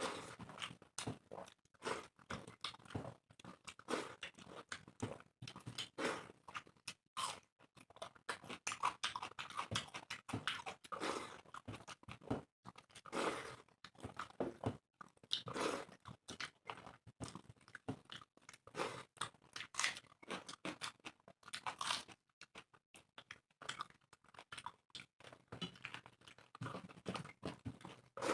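Two people eating rice and egg curry fast, chewing with many quick, irregular wet mouth clicks and smacks.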